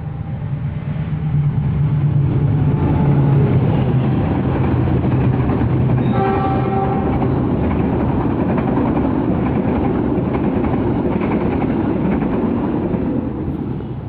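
Argo Merbabu passenger train passing close by: a low locomotive drone builds into a loud, steady rush of wheels on rails as the coaches go by. A brief horn note sounds about six seconds in.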